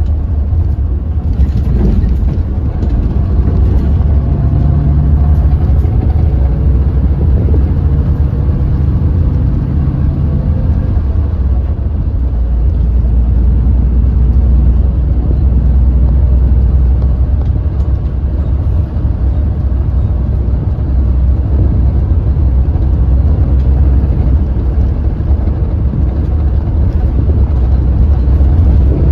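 Hyundai New Super Aero City CNG city bus engine running under way with a deep, steady drone. Its revs climb for several seconds, then fall back about eleven seconds in as the gearbox shifts up, and it runs on steadily after that.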